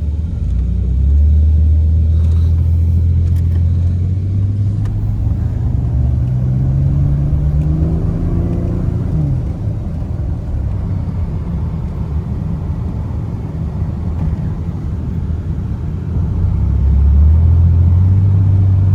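Ford Ranger pickup driving, its engine note climbing steadily under acceleration, then dropping sharply at a gear change about nine seconds in, followed by steady road rumble. The low engine note swells again near the end.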